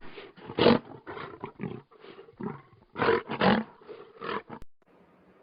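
Lion roaring: a run of short, rough roars of uneven length that stops about four and a half seconds in.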